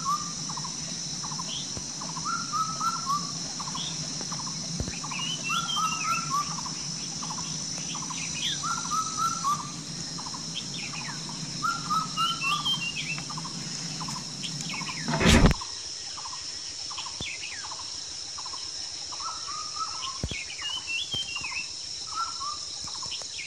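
A bird repeating a short call of a few quick notes about every two seconds, over a steady high-pitched hiss. One loud sharp knock about fifteen seconds in.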